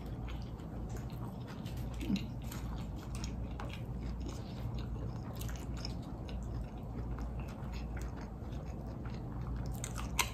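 Close-miked chewing of a crispy fried chicken sandwich: a steady run of small crunches and mouth clicks, with one sharper crunch near the end as a fry is bitten.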